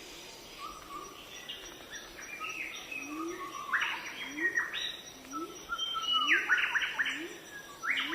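Several birds chirping and calling together in quick, overlapping short notes that grow busier and louder from about halfway in, over a low rising note that repeats about once a second.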